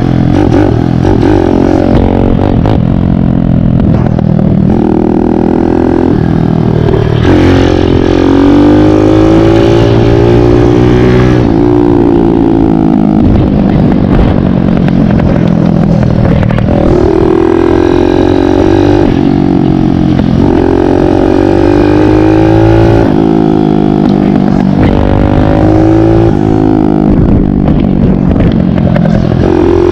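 Kawasaki KLX big-bore 178 cc single-cylinder four-stroke dirt bike engine under way, loud, its pitch rising and falling again and again as the throttle is opened and closed.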